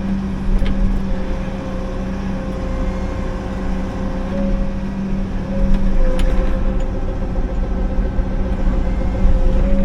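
Liugong 9051F mini excavator's Yanmar diesel engine running steadily at a constant pitch while the machine works, with a couple of short sharp knocks about half a second and six seconds in.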